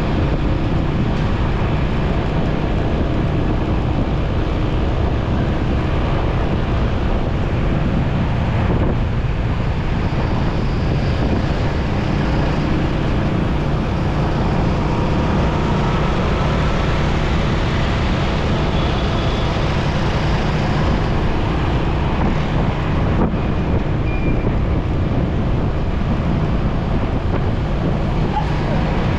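Steady wind rush on the microphone over a motorcycle engine running at cruising speed, with the hum of surrounding road traffic.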